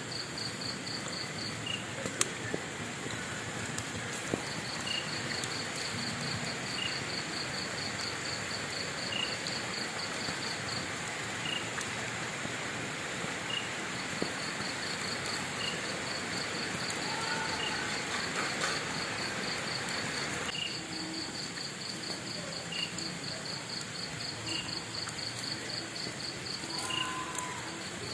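A wood fire hissing with scattered sharp crackles, while crickets trill in rapid pulsed runs of several seconds and another chirps singly about every second and a half. The fire's hiss drops abruptly about twenty seconds in.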